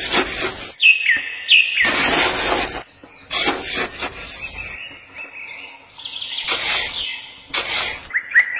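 Birds chirping: short falling chirps, with a quick run of chirps near the end, broken by several loud short noises that cover most of the range.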